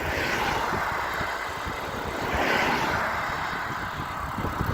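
Cars passing on a country road: tyre and engine noise swells near the start, eases, then swells again as a second vehicle goes by about two and a half seconds in.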